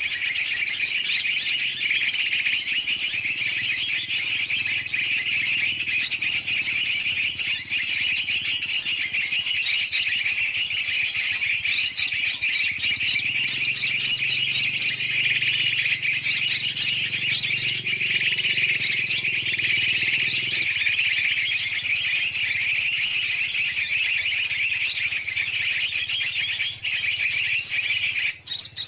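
Dense, noisy chorus of many small birds chirping and chattering without pause: a bird-trapping lure recording mixing big and small birds' calls to draw in bulbuls. The chorus breaks off briefly near the end.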